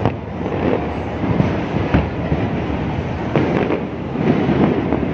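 Aerial fireworks bursting in quick succession: repeated sharp bangs over a continuous crackling rumble.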